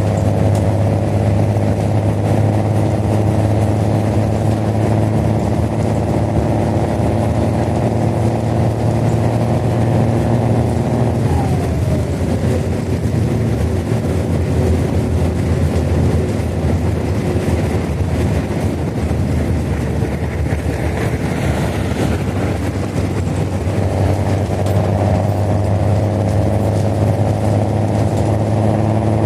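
Mercedes-Benz OH-1420 bus's rear-mounted diesel engine, fitted with a free-flow exhaust, running under way, heard from the rear seats inside the bus. About eleven seconds in its pitch falls away and the engine note sinks into road and body noise, then comes back strongly some twelve seconds later.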